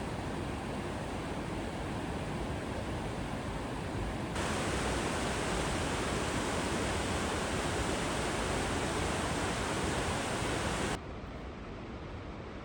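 Rushing water of a canyon creek: a steady, even roar. About four seconds in it jumps abruptly louder and brighter, and near the end it drops abruptly to a quieter, duller rush.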